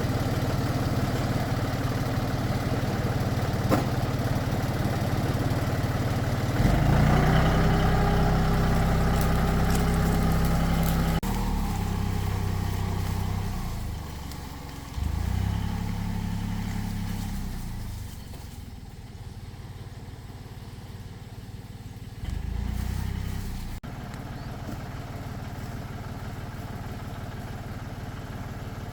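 Tractor engine running. It revs up about a quarter of the way in and holds there, then revs up briefly twice more. The sound changes abruptly twice, as at edits.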